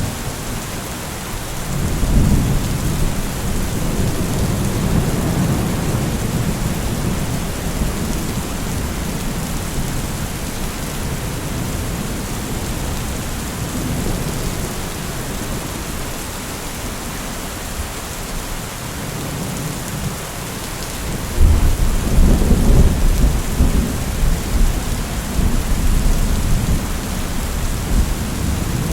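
Steady rain falling, with rolls of thunder: a low rumble swelling early on and a louder rumble breaking in about two-thirds of the way through.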